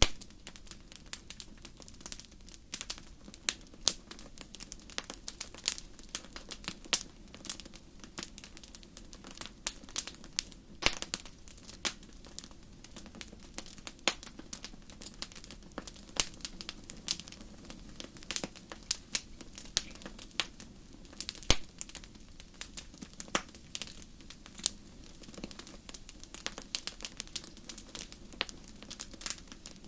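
Wood campfire crackling, with irregular sharp pops and snaps over a low steady hiss of burning.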